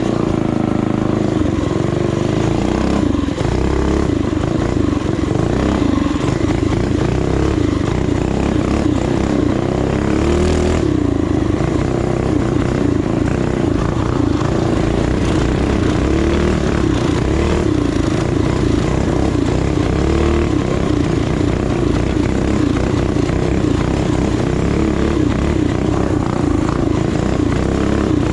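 Small four-stroke single-cylinder trail bike engine running under way, its pitch rising and falling as the throttle is worked, with a brief burst of noise about ten seconds in.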